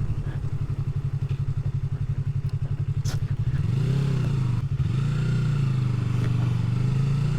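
Motorcycle engine running while riding, a low pulsing throb at first; about halfway through the revs rise, dip briefly and settle at a steady pitch.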